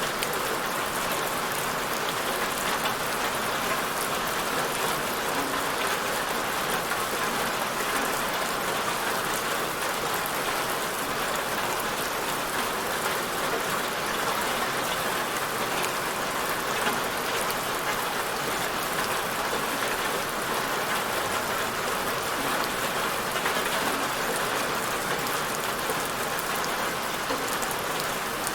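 Steady rain falling, an even hiss of drops with fine patter on a surface.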